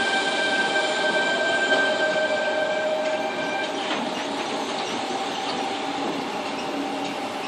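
Sydney Trains Tangara electric train running through the station, with several steady high-pitched tones over its running noise. The tones stop about four seconds in, and the train noise then slowly fades.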